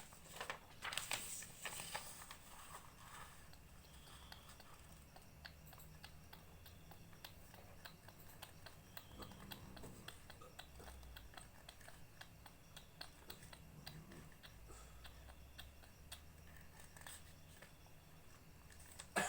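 Sheet of paper being handled and folded: soft, scattered crinkles and rustles, a little louder in the first couple of seconds.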